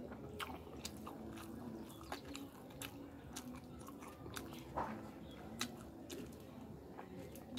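Close-miked chewing of rice and fish eaten by hand: irregular sharp mouth clicks and smacks, a couple a second, with one louder smack about midway.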